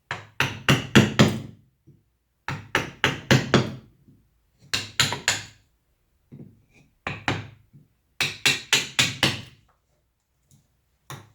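Mallet striking a carving chisel into wood, in quick bursts of three to six sharp knocks with short pauses between them.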